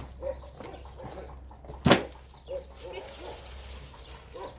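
Short animal calls repeating here and there, with a single sharp knock about two seconds in.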